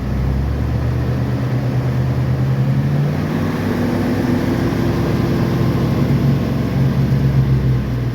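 1994 Dodge Ram's 318 V8 running steadily at about 3,000 rpm in second gear, turning the freshly rebuilt 9.25 rear differential at 30 mph. The revs come up at the start and edge higher about three seconds in, and no differential whine or gear noise is heard.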